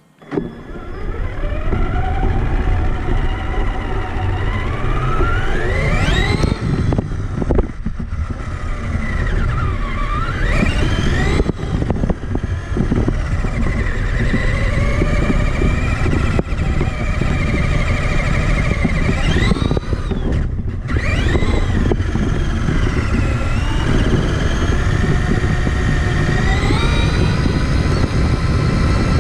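Electric motor and gear drive of a Traxxas Summit RC truck whining, rising in pitch several times as the truck speeds up and dropping when it slows, over a constant low rumble. The sound starts suddenly at the very beginning.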